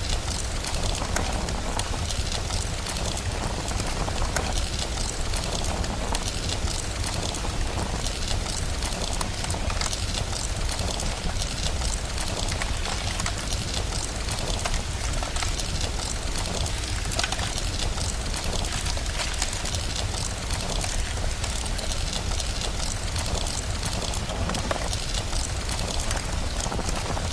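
Steady rain with a constant low rumble, mixed with a crackling wood fire: many small sharp crackles over an even hiss, with no change in level.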